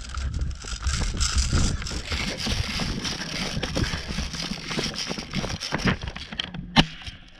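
Rustling and rumbling noise from someone running with the camera, with many scattered clicks and knocks and one sharp click near the end.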